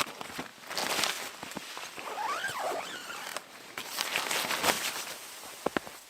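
Irregular crunching and rustling, with a short squeak that rises and falls about two seconds in and a couple of sharp clicks near the end.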